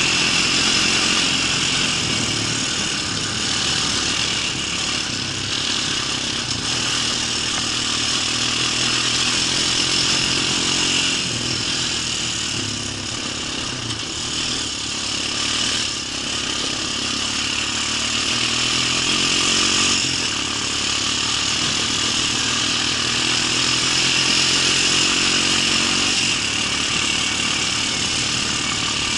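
An engine running steadily near idle for the whole stretch, its pitch and loudness wavering slightly.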